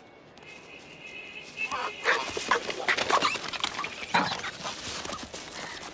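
Several monkeys screaming and shrieking together during a troop fight: a single high call about half a second in, then many overlapping shrill calls from about a second and a half.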